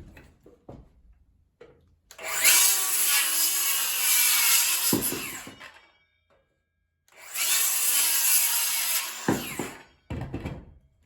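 DeWalt 20V Flexvolt cordless circular saw (DCS573) running on a 4 Ah battery, making two cuts through wood, each lasting about three to four seconds, with a high whine over the cutting noise. A thump comes as each cut ends.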